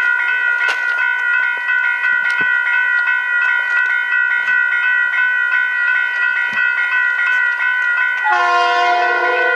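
Train horn sounding one long, continuous multi-tone chord. Near the end the chord changes as lower notes join in.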